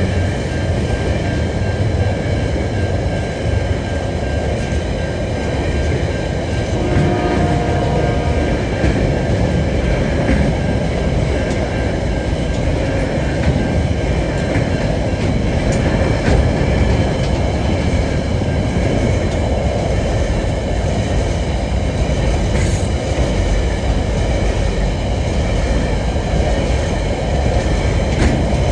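TasRail freight train rolling past at close range, a steady loud rumble of wagons on the rails.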